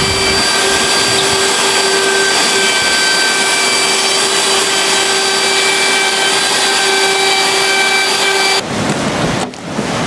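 Festool guide rail (track) saw running steadily with a high whine under a loud rush of cutting noise, as it cuts along a deck board. It cuts off suddenly about eight and a half seconds in, giving way to a lower rushing noise.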